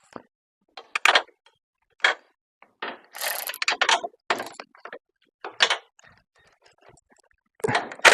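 Hand socket ratchet clicking in short irregular bursts as a 13 mm bolt is turned.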